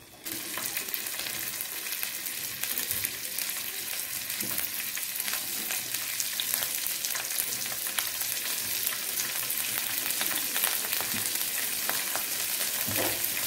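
Paneer cubes shallow-frying in butter in a nonstick pan: a steady sizzle with fine crackling, which jumps up sharply just after the start as more cubes go into the hot fat.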